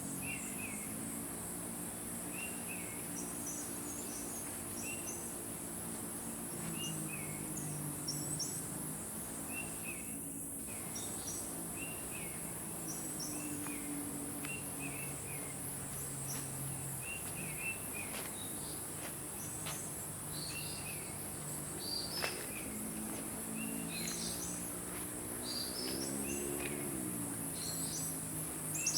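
Tropical forest ambience: a steady, pulsing high buzz of insects, with birds giving short chirps every second or two. Under them runs a low hum that bends up and down in pitch near the end.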